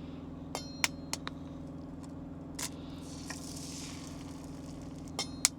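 Sharp clicks and taps of cooking utensils and egg handling at a small stovetop pan, several of them, the loudest near the end, with a short hiss in the middle, over a steady low hum.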